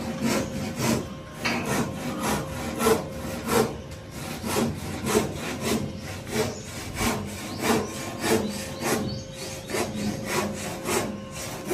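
Hand sawing: steady back-and-forth saw strokes, about three every two seconds.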